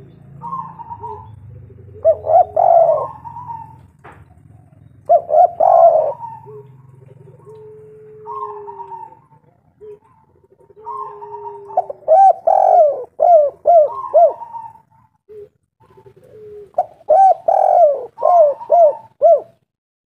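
Spotted dove (tekukur) cooing in four phrases of several quick coos, with softer drawn-out low coos between them. The calling stops shortly before the end.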